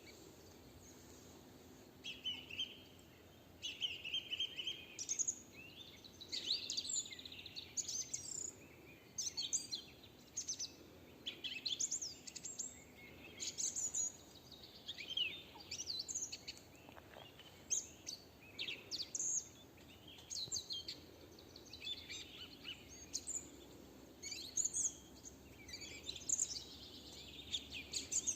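Several songbirds singing and calling at once, a continuous overlapping chorus of chirps, trills and whistles, over a faint steady background.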